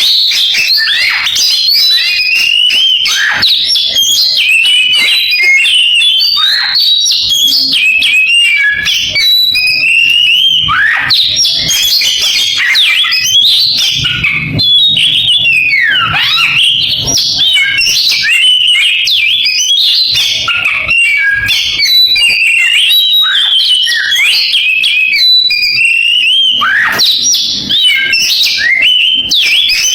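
Oriental magpie-robin (kacer) singing a long, unbroken, fast and varied song of chirps, trills and sweeping whistles, with canary-style phrases.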